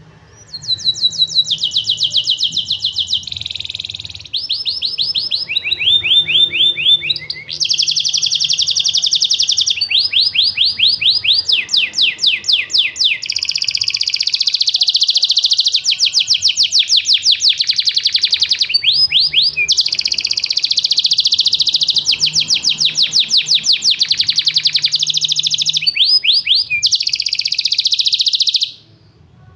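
Domestic canary singing a long, unbroken song of fast trills, switching to a new trill every second or two, then stopping abruptly near the end.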